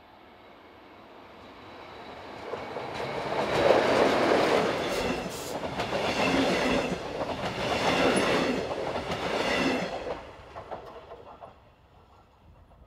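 Red regional train of double-deck coaches passing close by on an electrified main line. The sound of its wheels on the rails grows as it approaches, is loudest for about seven seconds with a regular clatter as the coaches go by, then fades quickly.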